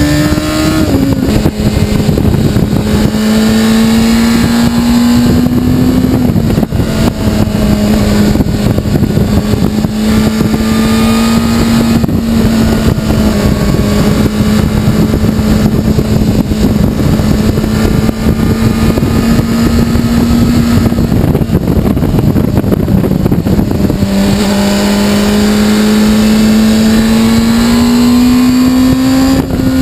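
Honda CBR600RR's 599 cc inline-four engine pulling on the road with heavy wind rush, shifting up twice in the first six seconds. It then holds steady revs, eases off for a few seconds past the middle, and climbs in revs again near the end.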